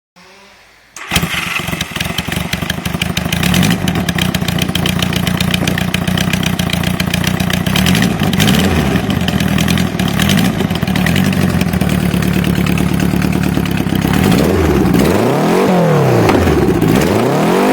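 Honda Gold Wing motorcycle engine through its custom exhaust: it cranks briefly, catches about a second in and settles into a steady idle. Near the end the throttle is blipped a few times, the revs rising and falling.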